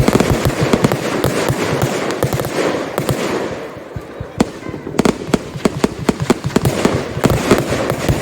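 Consumer fireworks going off in a rapid barrage of bangs and crackles. The bangs thin out and quieten for about a second just after halfway, then come thick again.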